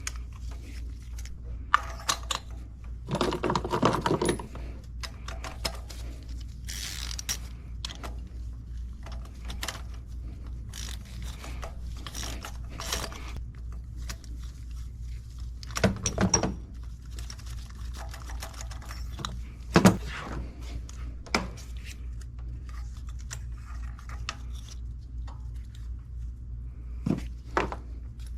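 Scattered clicks, knocks and short scrapes of hand tools and parts being handled while an ignition coil and spark plug are taken off the engine, over a steady low hum.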